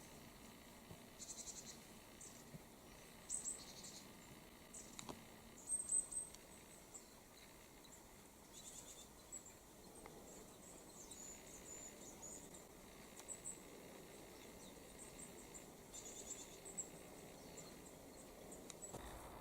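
Small songbirds calling: thin, high chirps and short trills, scattered irregularly with a few quick clusters, faint against quiet background noise.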